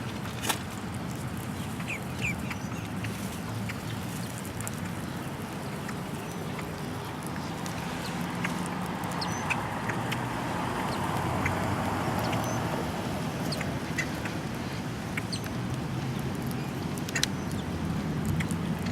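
Birds calling with short, scattered squawks and chirps, over a steady low hum.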